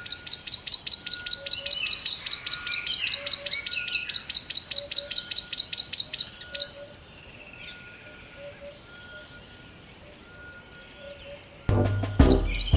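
Birds chirping: a fast run of high chirps, about six a second, for the first several seconds, then scattered short falling chirps. Music with a heavy beat comes in near the end.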